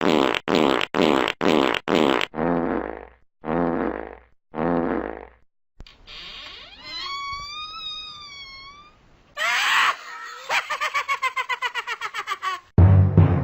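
A run of comedy fart sound effects: five quick blasts, three longer ones, a wavering pitched tone that rises and wobbles, then a rapid stuttering series of about six pulses a second.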